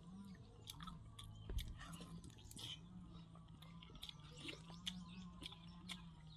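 Close-up eating sounds: a person chewing with wet mouth clicks and smacks, a few to the second, over a low steady hum.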